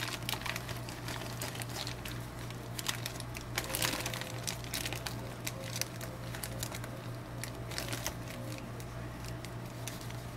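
Plastic snack-ramen bag and foil seasoning sachet crinkling in irregular handled crackles as the seasoning powder is emptied into the bag of broken noodles.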